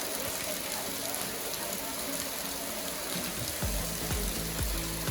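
Steady rushing of a waterfall. About three and a half seconds in, background music with a deep, repeated bass beat comes in over it.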